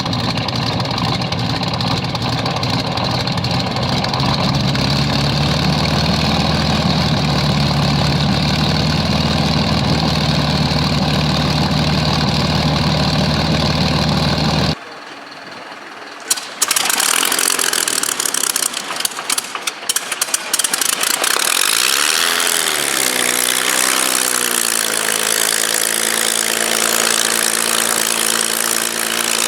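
A Supermarine Spitfire's V12 piston aero engine running steadily. About halfway through, the sound cuts to another start: a few sharp pops, then the engine catches, wavers in pitch and settles into a steady idle.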